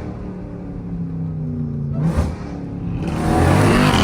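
Jeep Grand Cherokee Trackhawk's supercharged 6.2-litre V8 accelerating, revs climbing. There is a brief break about two seconds in, and it gets louder under harder acceleration near the end.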